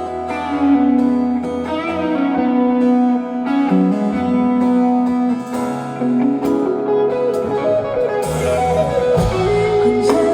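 Live band playing the instrumental interlude of a pop ballad, with a guitar carrying the melody and no vocals.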